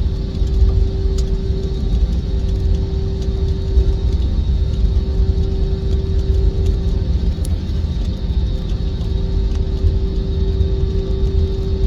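Jet airliner engines running with a steady low rumble and a constant whine.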